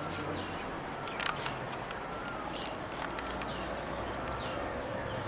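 Birds calling, a short falling chirp roughly once a second, over a steady outdoor background hiss. A few sharp clicks come just after a second in.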